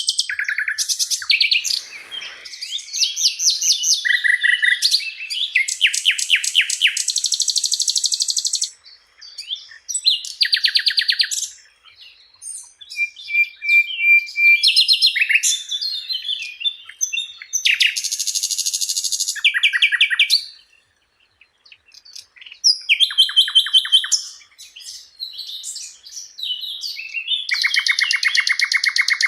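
Sikatan londo flycatcher singing a varied, high-pitched song of fast trills and rapidly repeated notes, in phrases broken by short pauses.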